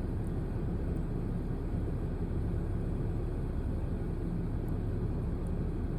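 Steady low rumble of vehicle noise, even throughout, with no distinct events.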